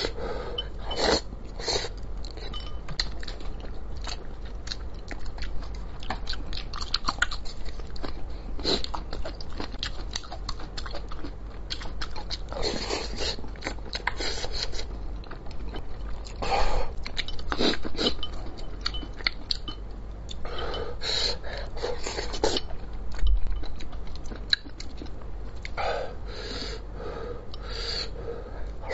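A man chewing mouthfuls of spicy braised fish: a continuous run of short wet mouth clicks, broken by a few longer noisy bursts.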